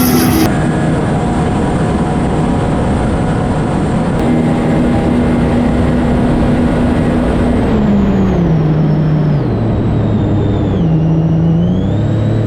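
Jet ski engine running at a steady high speed, then coming off the throttle in steps, picking up briefly and dropping again near the end, with a high whine rising and falling with the engine speed over rushing wind and water noise.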